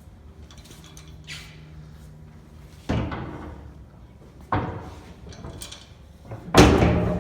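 Heavy metal clanks from a vertical cardboard baler's steel door and latch being worked: three sharp knocks, the last and loudest near the end, each ringing out briefly.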